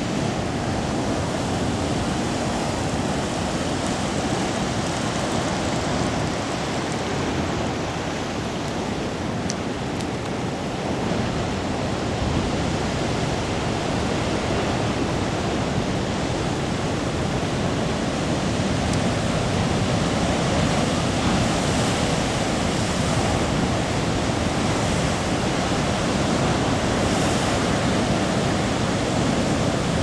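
Heavy typhoon-driven storm surf breaking on a rocky shore: a continuous, dense wash of crashing waves that grows a little louder in the last third.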